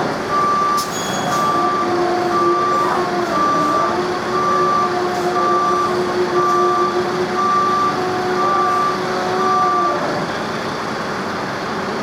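A heavy vehicle's reversing alarm beeps at a steady single pitch, about once every two-thirds of a second, over a running engine. A lower steady hum joins about two seconds in, and both stop about ten seconds in.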